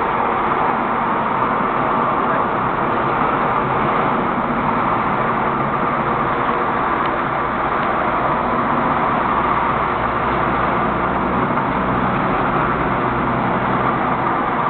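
Scania L94UB Unvi Cidade II city bus running, a steady engine drone that holds even throughout.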